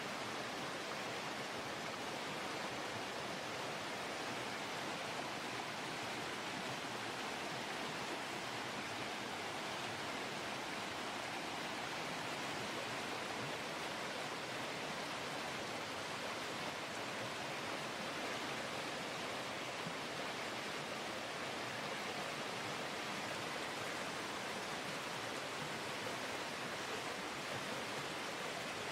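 Creek water cascading over rapids and waterfalls, a steady unbroken roar of rushing water.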